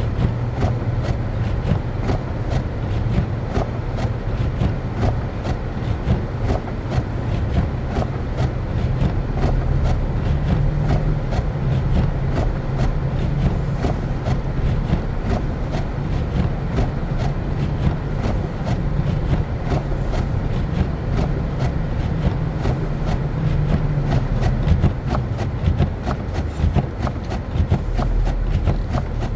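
Car driving on a snow-covered road: a steady low rumble of engine and tyres, with a constant irregular patter of small clicks.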